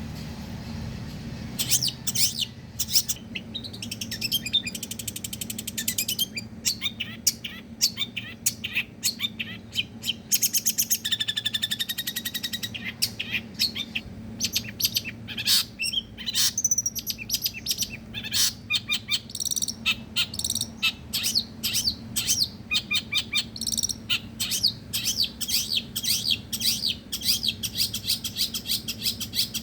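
Long-tailed shrike (pentet) singing a fast, varied rapid-fire song of sharp chirps and trills, with a held two-note whistle about eleven seconds in, over a faint steady low hum.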